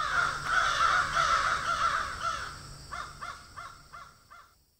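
Birds calling: a dense flurry of short, overlapping calls that thins after about three seconds into a run of separate calls and fades out near the end.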